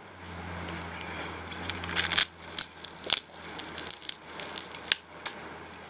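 Crisp, wet crackling and crunching of watermelon being bitten and chewed, with a cluster of sharp clicks about two seconds in and scattered ones after.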